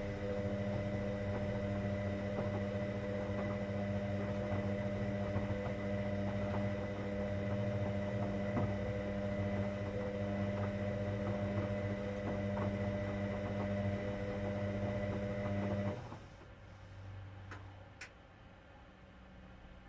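Hoover Dynamic Next washing machine giving off a steady electrical hum. The hum cuts off suddenly about three-quarters of the way in, followed by two faint clicks.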